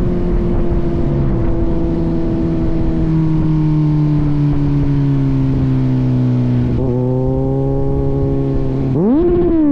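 Kawasaki Z900's inline-four engine through an aftermarket AR exhaust, its pitch slowly falling as the bike eases off. Near the end a quick throttle blip makes the pitch rise sharply and drop again.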